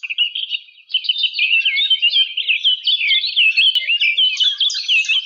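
A small bird chirping and warbling: a rapid, continuous run of short high notes that swoop up and down, with a brief pause a little under a second in.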